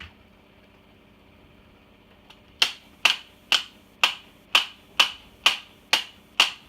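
A run of sharp, evenly spaced clicks, about two a second, starting a little over two seconds in after a quiet stretch.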